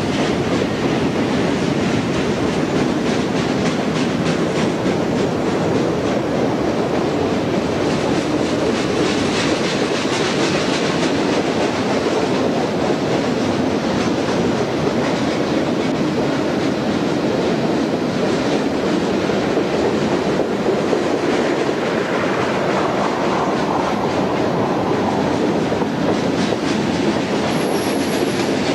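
A train rolling past at close range: a steady, loud rumble of wheels on rail, with repeated sharp clicks as the wheels cross rail joints.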